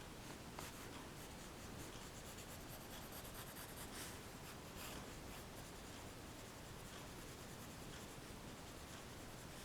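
Pencil scratching across paper in short sketching strokes, faint and close. The strokes come thickly for the first few seconds, then more sparsely.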